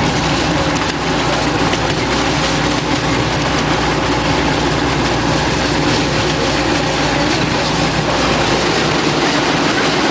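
Miniature railway train running along its track, heard from on board: a steady rumble and rattle of the wheels on the rails.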